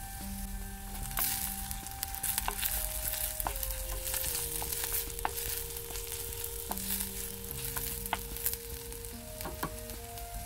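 Sliced onions, curry leaves and chilli pieces sizzling in coconut oil in a clay pot. A wooden spoon stirs through them, with short scraping clicks against the pot now and then.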